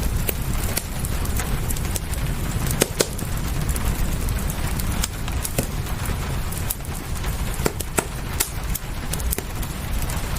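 Wood fire crackling with frequent irregular sharp pops, over a steady hiss of rain and a low rumble.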